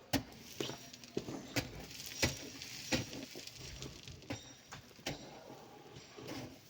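Irregular sharp knocks and clacks of stone and coral being handled and dropped during loading, about one every half second to second.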